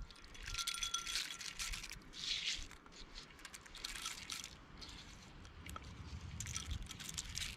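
Loose birdseed mixture rattling and scraping as it is pushed around a mould with a stick, in irregular scratchy bursts.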